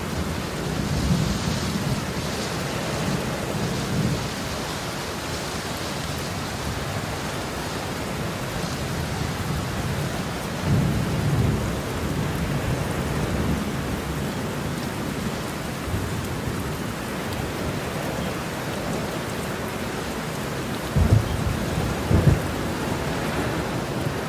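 Heavy rain falling steadily with thunder: low rumbles about a second in and near the middle, and two sharper claps near the end.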